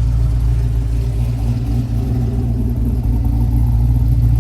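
A 5.3-litre LS V8 idling steadily through a Pypes exhaust with a race muffler. The engine is still running on a self-learning tune.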